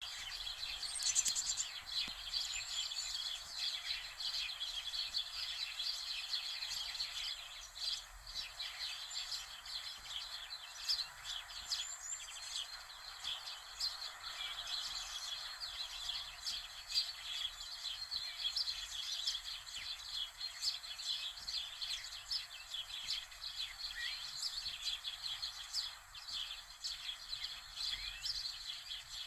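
Many small birds chirping and twittering together over a steady hiss, with dense short chirps and an occasional brief whistled glide.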